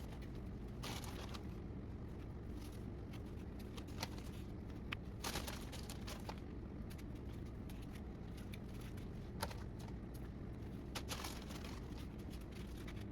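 Soft, scattered rustles and brushes of tortillas being handled, filled and folded closed, over a steady low hum.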